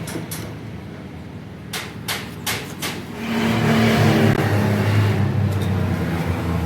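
An engine running, with a few sharp knocks about two seconds in, then revving up a little after three seconds.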